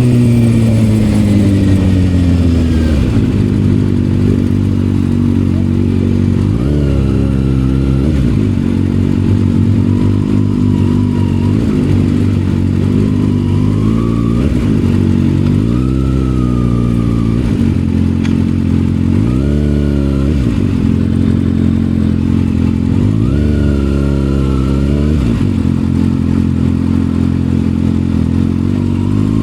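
Kawasaki ZX-6R inline-four with an M4 aftermarket exhaust. The revs fall away from high over the first few seconds, then the engine runs low with several short throttle revs that rise and drop back, the sharpest around the middle and near the end.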